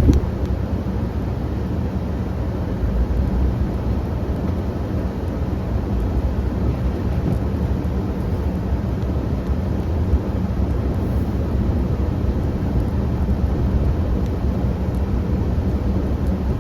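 Engine of a snow-clearing vehicle running steadily while pushing snow: a continuous low rumble.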